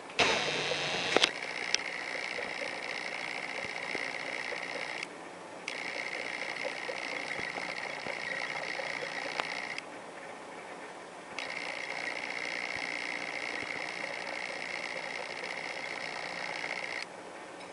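Fischer's lovebird bathing in a shallow dish of water, splashing and fluttering rapidly in long bouts of several seconds. The bouts pause briefly about five seconds in, about ten seconds in, and near the end. The first second is louder, with a few sharp clicks.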